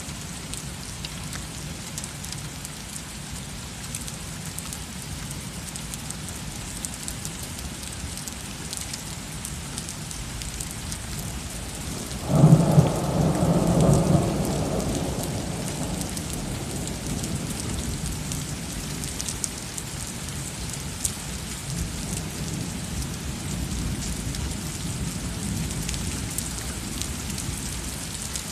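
Heavy rain falling steadily during a thunderstorm. About twelve seconds in, a sudden loud thunderclap breaks out and rumbles for a few seconds before fading, and a fainter rumble of thunder follows later.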